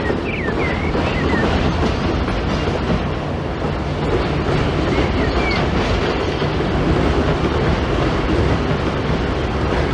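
Train running with a steady, dense rumble and a few short high squeaks, twice.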